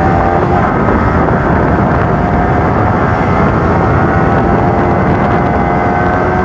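Motorcycle engine running at a steady speed while riding, its pitch holding level.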